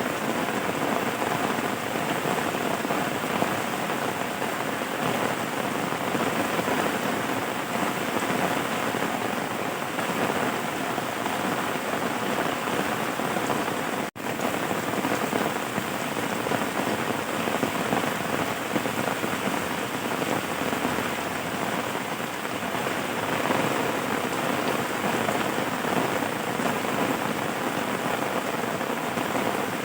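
Steady rain falling, an even, unbroken wash of noise except for a split-second dropout about halfway through.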